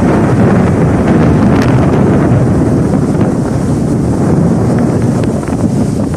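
Thunder rumbling, a long, loud, low roll that carries on without a break.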